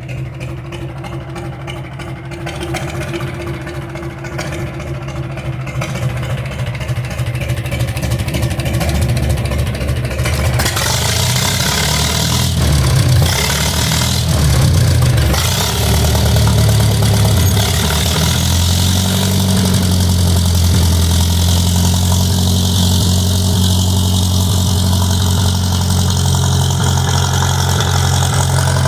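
Farmall M tractor's four-cylinder gasoline engine running through a 5-inch straight pipe. It grows louder and rougher about ten seconds in, then settles into a steady, heavy run. The owner says there is still an intake leak at the manifold.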